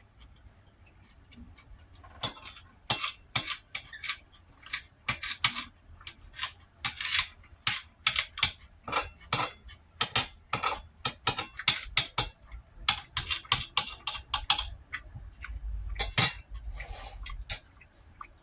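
Cutlery clinking and scraping against a plate or bowl in a quick, uneven run of sharp clicks, starting about two seconds in and stopping shortly before the end.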